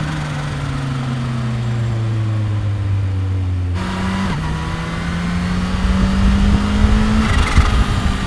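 2015 Kawasaki Ninja H2's supercharged inline-four engine and exhaust on the road. The engine note falls slowly as the bike slows. About four seconds in, the pitch jumps up and then climbs steadily as it pulls away again, getting louder near the end.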